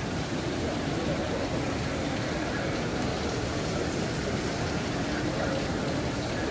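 Steady rain falling on wet marble paving, an even, unbroken wash of noise.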